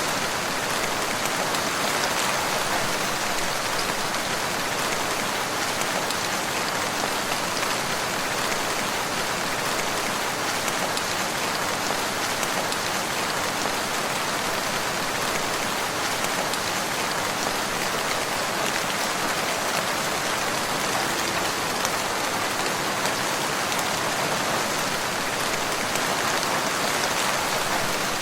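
Steady rain falling on a surface, an even hiss with no rises or breaks.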